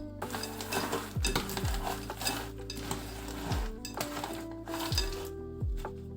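A utensil stirring and clinking against kitchen cookware, irregular clattery scrapes and clicks. Soft background music with a deep falling bass beat plays underneath.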